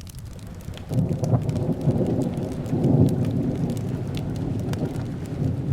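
Thunder rumbling over steady rain: a long low rumble that starts about a second in and swells, with small sharp crackles scattered through it.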